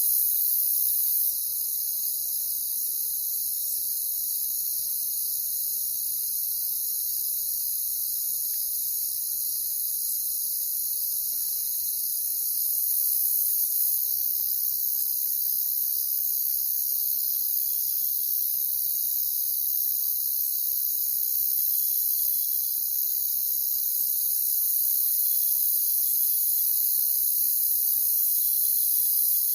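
A chorus of crickets chirping steadily, a dense high-pitched trilling that runs without a break.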